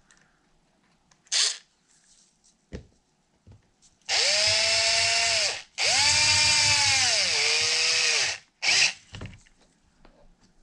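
Cordless drill/driver running screws into an RC truck wheel: two runs of a couple of seconds, the motor's whine dropping in pitch near the end of each as the screw tightens. There are brief trigger blips before and after.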